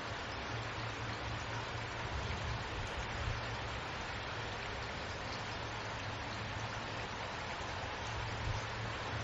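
Steady recorded rainfall, an even hiss of rain with no breaks, over a steady low hum.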